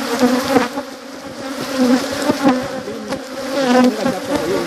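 Honeybees buzzing in large numbers around an opened hive, with single bees flying close past so that their hum rises and falls in pitch.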